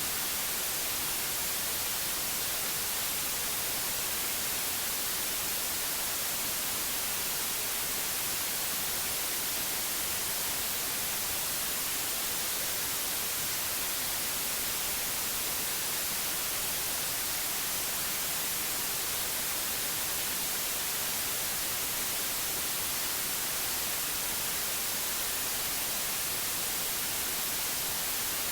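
Steady, unchanging white noise: an even hiss, brightest in the treble.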